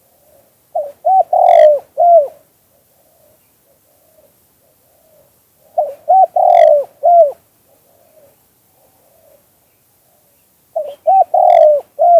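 Spotted dove calling in the '2 kuk hoi' style that dove keepers use to lure wild doves: three cooing phrases about five seconds apart, each a quick run of low coos around one longer note, with faint coos between them.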